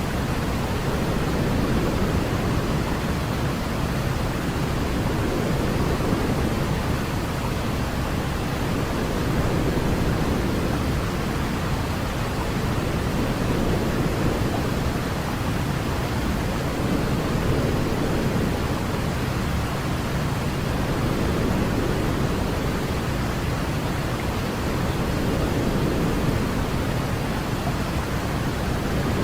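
Steady baby-sleep white noise, deep and heavier in the low end like pink noise, with only slight slow rises and falls in level.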